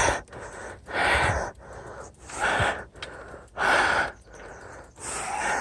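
A person breathing hard and deep, out of breath from the effort: four loud breaths about one every second and a half, with quieter breaths between.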